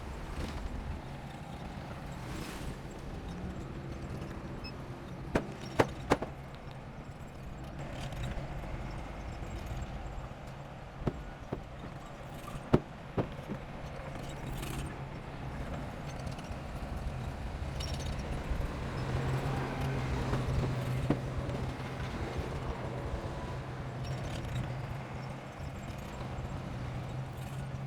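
Heavy earthmoving machine's diesel engine running steadily under load, with several sharp metallic clanks in the middle stretch; the engine grows louder for a few seconds about two-thirds of the way through.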